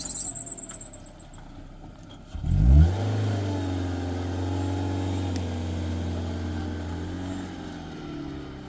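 A motor vehicle engine starts about two seconds in with a quick rising rev, then settles into a steady idle. Before it, a high warbling sound fades out.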